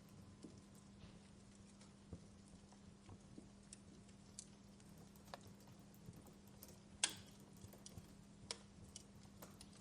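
Wood fire crackling softly: scattered sharp snaps and pops at irregular times, the loudest about seven seconds in, over a faint steady low hum.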